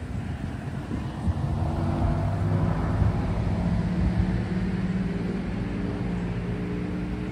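A motor vehicle's engine running, growing louder about a second and a half in and then holding steady.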